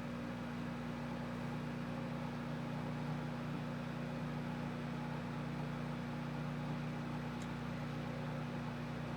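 Himade HMW-G17W 700 W dial-type microwave oven running: a steady hum.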